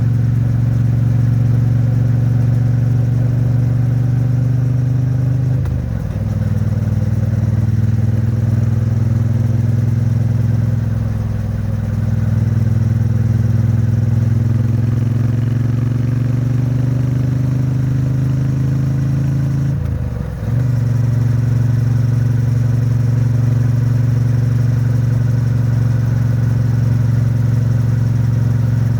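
Triumph Bonneville T100's 900 cc parallel-twin engine and exhaust pulling steadily at expressway speed. Its pitch slowly rises, with two brief dips for upshifts, about six seconds in and near twenty seconds. The engine is being run in and kept at moderate revs.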